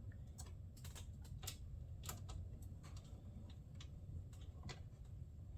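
Faint, irregular light clicks and taps of a small bolt and washer being handled and lined up in a fender shroud's mounting hole, over a low steady hum.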